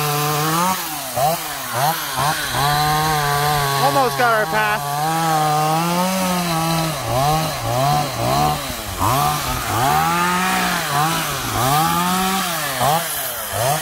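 Two-stroke chainsaw cutting a tree, its engine pitch dropping as the chain bogs down in the wood and rising again as it frees up, over and over.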